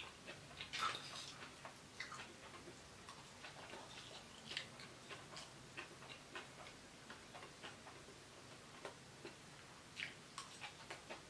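Faint eating noises of noodles being eaten close to the microphone: scattered small clicks and wet smacks at uneven intervals, with a brief louder slurp about a second in.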